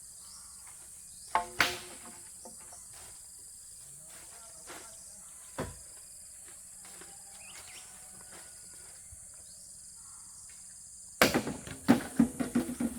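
Steady high insect chirring, as of crickets, runs underneath. Over it come a few sharp knocks, one pair about a second and a half in and one at the middle, then a rapid clatter of knocks near the end, which is the loudest part.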